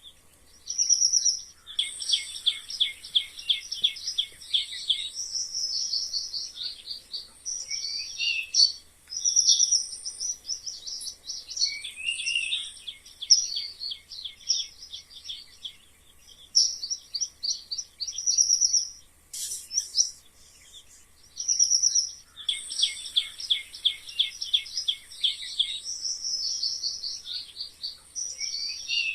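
High-pitched animal squeaks and chirps in rapid trains, several overlapping, with brief lulls between bursts.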